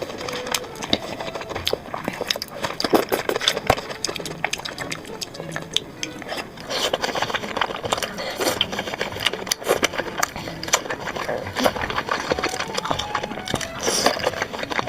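Close-miked eating sounds of a mukbang: chewing, with a dense, irregular run of wet mouth clicks and smacks.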